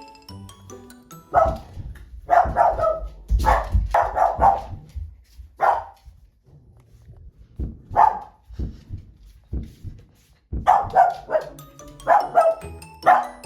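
A Cavalier King Charles spaniel barking in short bursts, again and again, over background music.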